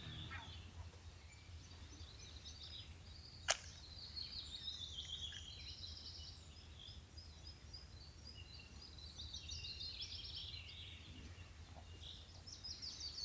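Faint birdsong, several birds chirping and warbling, over a low steady background hum. One sharp click sounds about three and a half seconds in.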